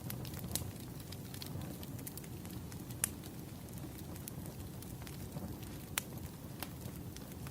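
Burning firewood: a steady low rumble of the fire with scattered crackles and a few sharper pops.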